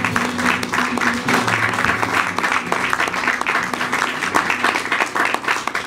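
Audience applauding, with the band's last low notes dying away under the clapping in the first second or so.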